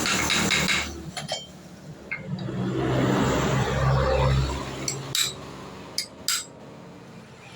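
Metal tools and parts clinking and knocking, with a louder rushing noise over a low steady hum in the middle.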